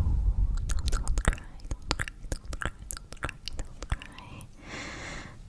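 Close-miked ASMR trigger sounds: rapid, irregular crisp clicks and taps right at the microphone, with a low rumble of handling in the first second and a short breathy hiss near the end.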